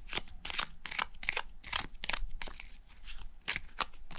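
A deck of playing cards being shuffled by hand, a short papery rasp of sliding cards two or three times a second.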